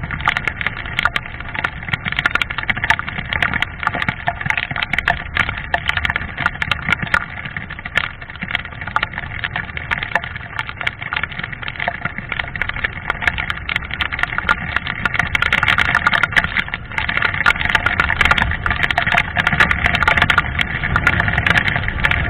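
Yamaha Fazer FZ25 motorcycle's single-cylinder engine running steadily while riding, with wind noise on the helmet microphone; it gets a little louder about three quarters of the way through.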